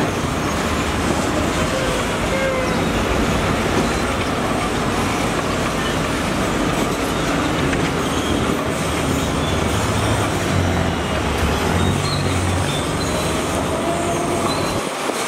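Heavy diesel construction machinery running steadily, a loud, constant, dense machine noise with a low engine drone underneath.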